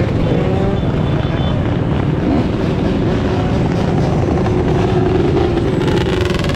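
Dirt bike engines running steadily.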